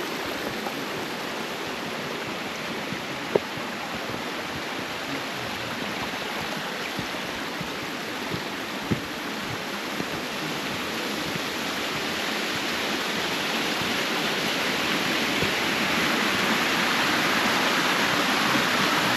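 Stream water rushing steadily, growing gradually louder throughout, with a couple of faint knocks.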